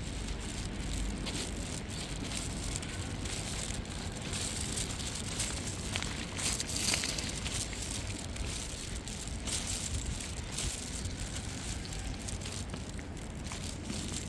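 Irregular rustling and crackling over a steady low rumble of wind on the microphone, with a louder crackle about seven seconds in.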